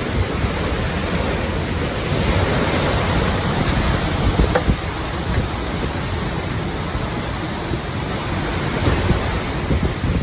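Hurricane wind and heavy rain, a steady dense rush with gusts buffeting the microphone.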